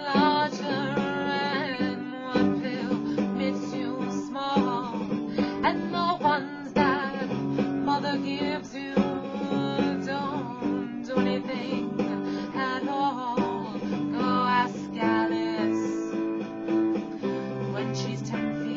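Guitar music, the strings plucked and strummed in a steady run of notes.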